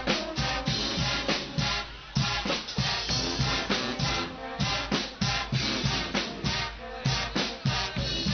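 Guggenmusik carnival band playing: brass over a steady, driving beat of bass and snare drums.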